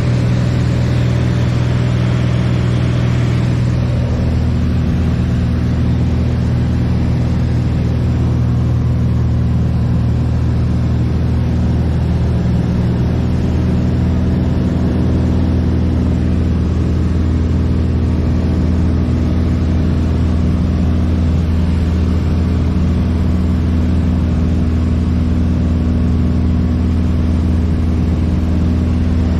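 Piston engine and propeller of a light airplane droning steadily at constant power, heard from inside the cabin.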